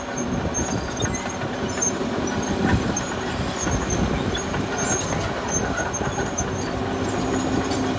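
Caterpillar D6R XL crawler bulldozer working: its diesel engine running steadily while the steel tracks clatter and squeak.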